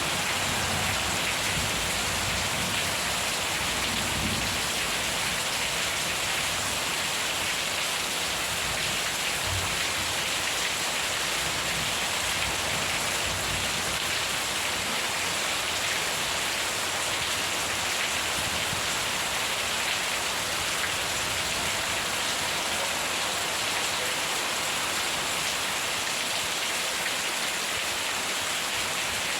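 Steady heavy rainfall, an even hiss of drops hitting surfaces, with a low rumble of thunder dying away over the first few seconds.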